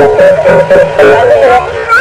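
Bhajan, a devotional song, sung with sustained, wavering notes over music, heard from an old restored tape recording.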